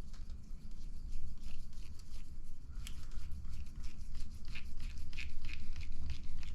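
Light irregular clicks and scrapes of small plastic and metal RC buggy parts being handled as a ball stud is threaded into the front-end part, over a steady low hum.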